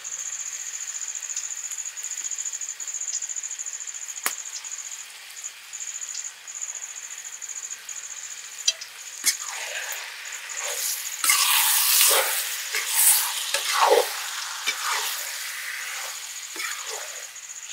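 Chicken frying in a kadai over a wood fire, sizzling steadily. In the second half a spatula stirs and scrapes through the chicken and masala powder in a run of louder strokes.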